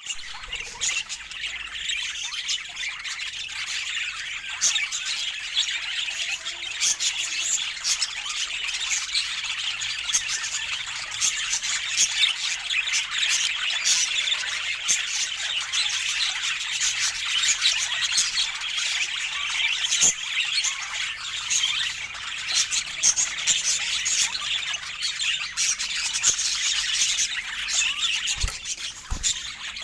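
Budgerigars chattering and warbling without pause, with squawks and chirps mixed in.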